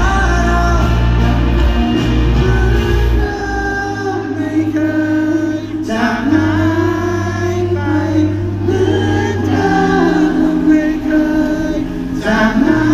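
Pop-rock band playing live with a sung melody over guitars and bass, several voices singing together. The bass drops out about three and a half seconds in and comes back a few seconds later.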